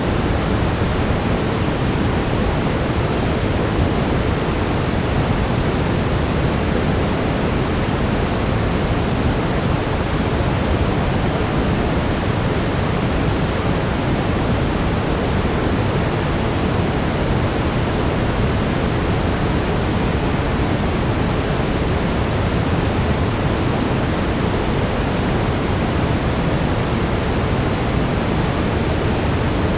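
Steady brown noise: an even, unchanging hiss weighted toward the deep end.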